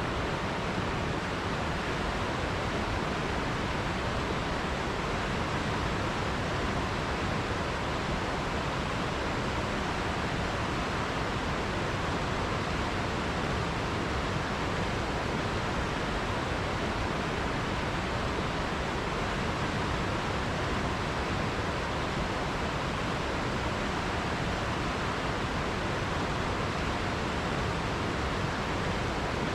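Forest river flowing: a steady, even rush of water with no single splashes or other events standing out.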